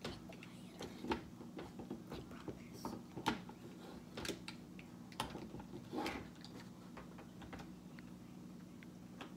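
Slime being squished and poked by hand, making irregular clicks and pops about once a second. A steady low hum runs underneath.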